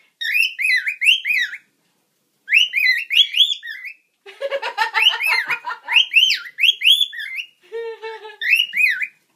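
A budgie and a cockatiel chirping and warbling in quick rising-and-falling whistles, in several bursts with short pauses between them. A lower, buzzier call breaks in about halfway through and again near the end.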